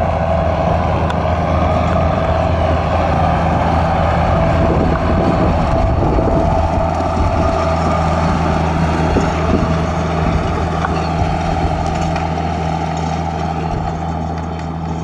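An engine running steadily at a constant speed, with wind noise buffeting over it.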